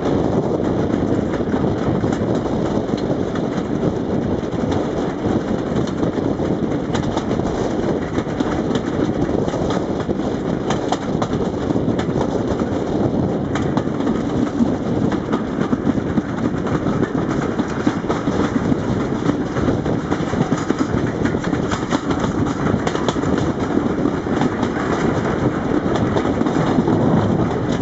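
Railway carriage running along the line, heard from outside an open window: a steady rumble of wheels on the rails with frequent irregular clicks and knocks.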